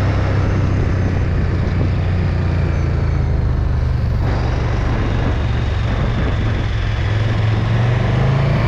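KTM 1290 Super Duke R's V-twin engine running under way, with wind rush on the microphone; the engine note rises slightly near the end.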